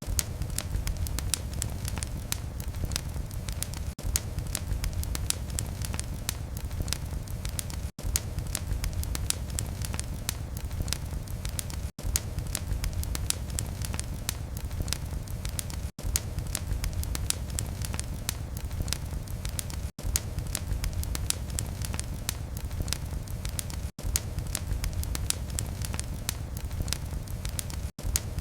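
Fire crackling steadily in a fireplace: a dense run of sharp pops and snaps over a low, steady rumble of flame. The sound briefly drops out about every four seconds.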